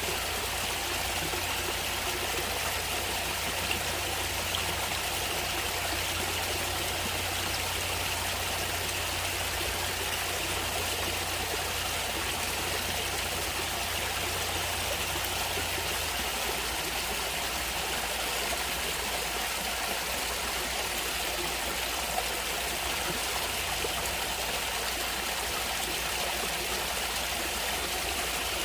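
Natural stream water running and trickling in a steady, even rush.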